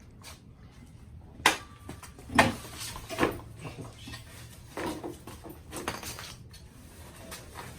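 Sharp clanks and knocks of hard objects being handled: three loud ones in the first few seconds, then a couple of softer ones.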